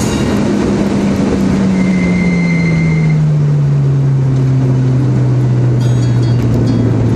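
Mitsubishi Lancer Evolution IX's turbocharged four-cylinder engine heard from inside the cabin. The revs fall over a couple of seconds as the car slows into a bend, then hold steady.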